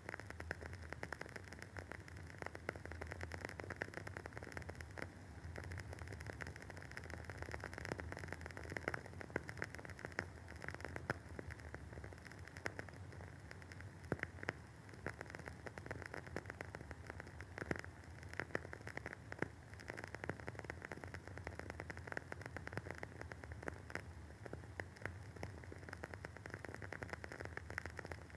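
Wooden candle wick burning with a steady soft crackle of many small pops, a few louder ones scattered through, over a faint low hum.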